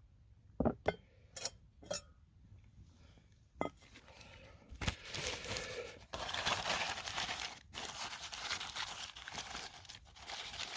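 A few light knocks and clinks, then a long stretch of crinkling and rustling as crinkly wrapping is handled and crumpled, with short pauses.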